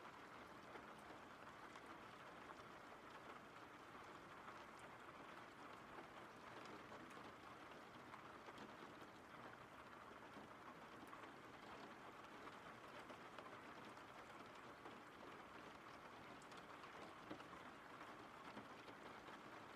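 Faint, steady rain ambience: an even hiss of rainfall with scattered light ticks of drops.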